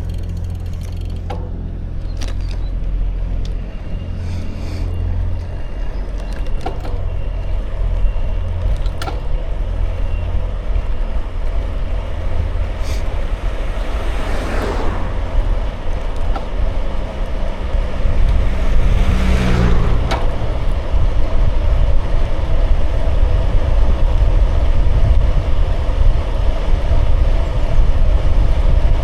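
Steady low rumble of wind on the microphone and tyres rolling during a bicycle ride, with a few sharp clicks in the first third. Two swells of noise come about halfway through, the second ending in a dropping hum as a vehicle passes.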